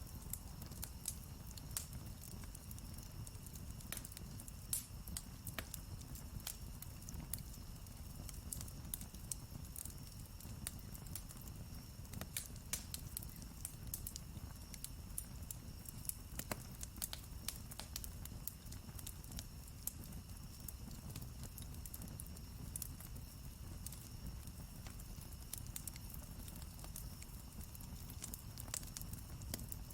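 Campfire crackling steadily, with frequent irregular sharp pops and snaps of burning wood over a low rush.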